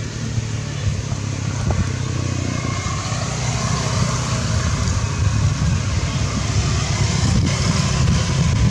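A motor vehicle engine running steadily with a low rumble under a constant hiss.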